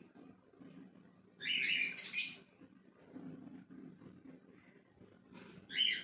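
Ringneck parakeet chick giving short, harsh chirping calls: one longer call about a second and a half in, a short one just after, and another near the end, over a faint low background hum.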